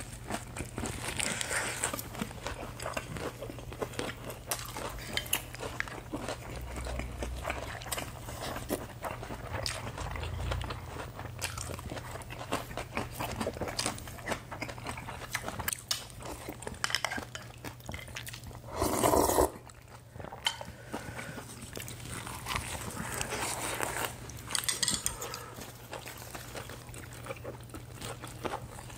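Chewing and crunching of lettuce wraps of spicy stir-fried pork and fresh raw vegetables, picked up close by clip-on microphones, with wet mouth sounds and small crackles throughout. One short, louder noisy burst comes about two-thirds of the way through.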